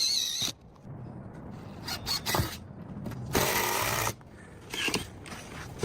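Power drill driving screws into a wooden roof board, running in several short bursts with pauses between, the longest nearly a second long a little past the middle.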